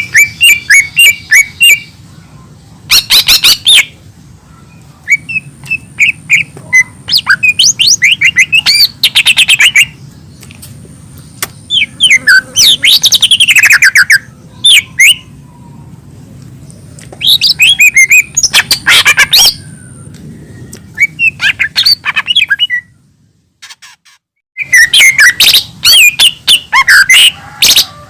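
Cucak ijo mini (a small green leafbird) singing in loud phrases of rapid chirping trills and squeaky notes, each one to three seconds long with short pauses between, over a low steady hum. The sound cuts out briefly about 23 seconds in.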